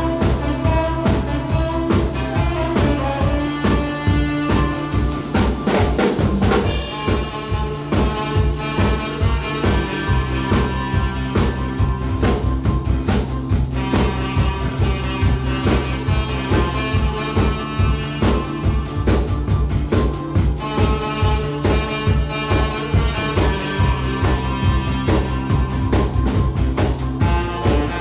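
Live drum kit keeping a steady beat, with bass drum, snare and rimshots, under a saxophone and backing track playing a trot song.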